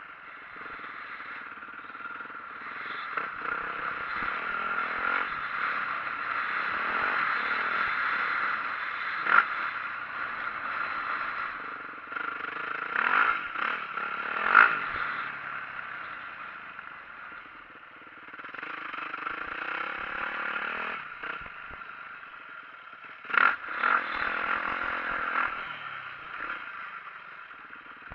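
2004 Yamaha YZ450F's four-stroke single-cylinder dirt bike engine under way, revving up and easing off in repeated swells. Several sharp knocks and clattering come through, the loudest about a third and half way in and again near the end.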